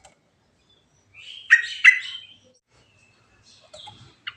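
Yellow-vented bulbul (trucukan) singing: two loud, short notes in quick succession about a second and a half in, followed by a few fainter notes near the end.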